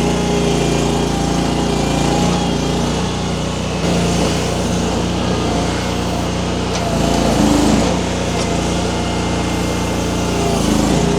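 Small engine of a Baumalight mini skid steer running steadily while the machine works a grapple, getting briefly louder about seven seconds in.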